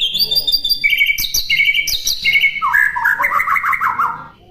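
White-rumped shama (murai batu) singing: a fast run of short whistled notes repeated in groups, each group lower in pitch than the last, breaking off about four seconds in.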